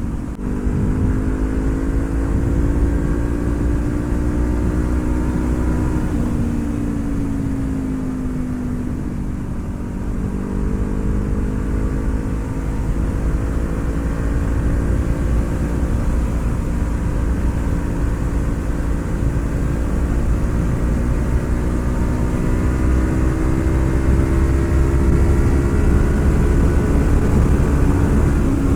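Honda CB500F's parallel-twin engine running under way, its pitch climbing slowly, dropping about six seconds in and easing off, then holding and climbing gradually again through the rest, over a low rumble of rushing air.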